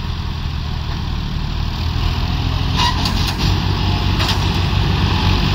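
Tractor diesel engine running steadily, slowly getting a little louder, with a few brief sharp sounds about halfway through.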